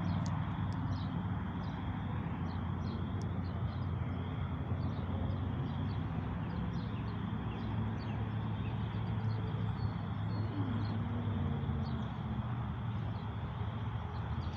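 Outdoor ambience: a steady low hum with many faint small ticks over it.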